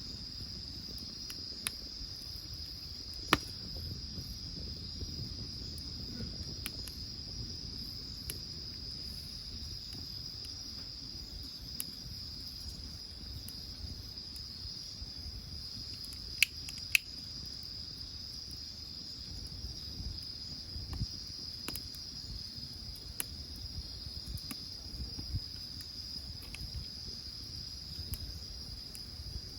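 Insects chirring steadily in a high, unbroken drone, with scattered sharp pops and crackles from burning firewood; the loudest pops come about three seconds in and twice in quick succession around the middle.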